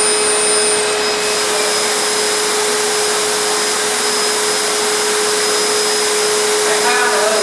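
PCB CNC routing machine running: a loud, steady rushing noise like a vacuum, with a steady tone held through it. A faint high tone drops out about a second in.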